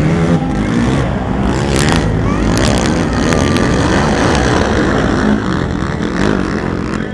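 Racing four-stroke ATV engines revving hard, the pitch rising and falling as the quads race around the track.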